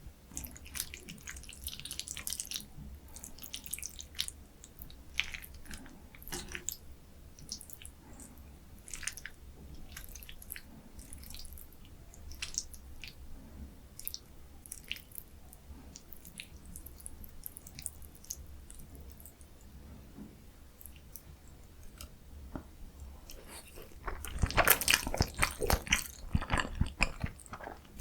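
Close-miked ASMR eating: soft wet mouth sounds and small clicks of chewing, then from about 24 seconds in much louder, rapid crunchy bites and chewing.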